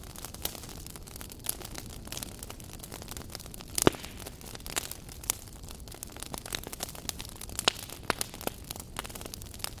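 Wood fire burning in a fireplace, crackling with irregular sharp pops over a soft steady hiss; one louder pop about four seconds in.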